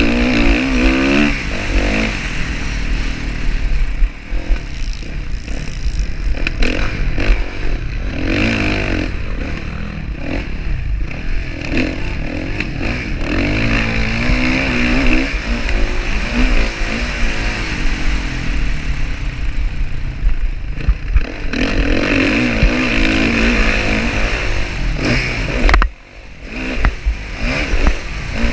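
Motocross dirt bike engines revving hard, the pitch climbing and falling again and again as the throttle is worked. The sound drops off sharply for a moment near the end, then picks back up.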